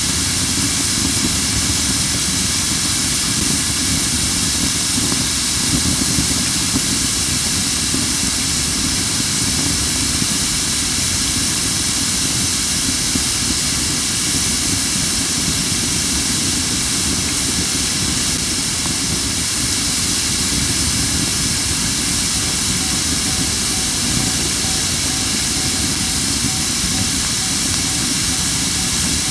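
Crape myrtle wood burning in a fire pit, hissing strongly and steadily with little crackling. The hiss is steam escaping from wood that is not fully dry, the way green wood burns.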